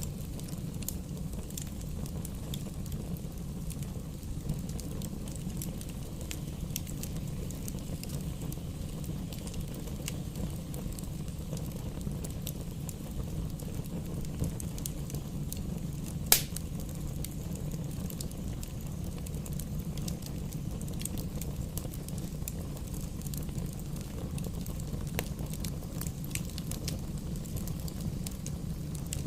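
Campfire burning: a steady low rumble with frequent small crackles, and one loud sharp pop from the fire about halfway through.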